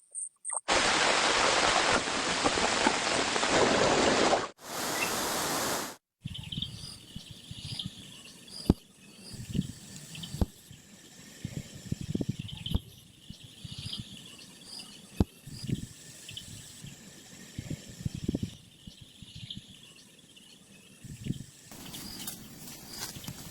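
Loud, steady hiss for about four seconds that cuts off abruptly, followed by a quieter stretch of outdoor ambience with faint repeated chirps and scattered soft knocks.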